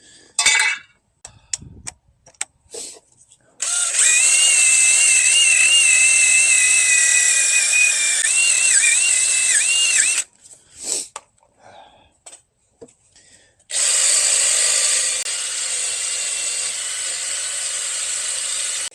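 Wire wheel spinning on a power tool, scrubbing old grime and rust off the steering knuckle's hub mounting surface. It runs twice for several seconds with a short pause between, its whine wavering in pitch, after a few clicks and knocks of handling.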